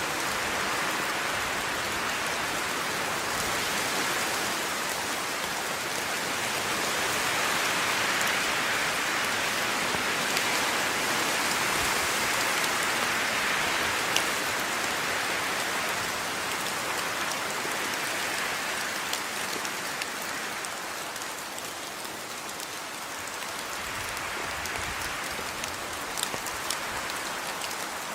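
Steady rain falling on a surface, an even hiss with scattered drop ticks that swells a little and eases off again.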